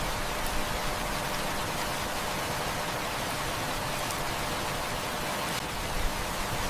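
Heavy rain falling steadily as an even, unbroken hiss, with a few faint clicks.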